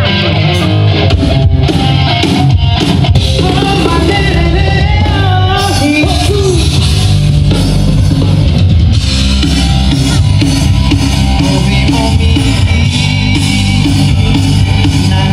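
Amplified rock band playing, with electric guitar lines and a drum kit, loud and continuous through a PA.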